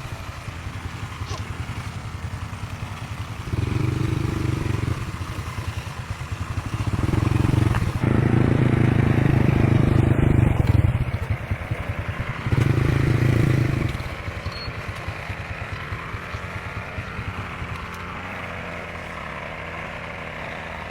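Engine running with a fast, even chug, revved up three times: briefly about three and a half seconds in, longer from about seven to eleven seconds, and again around thirteen seconds, then settling back to idle.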